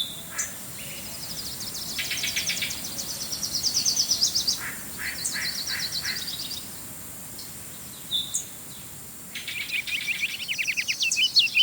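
Songbirds singing: several phrases of rapid, high trilled notes with short pauses between them, the last phrase ending in a few separate chirps.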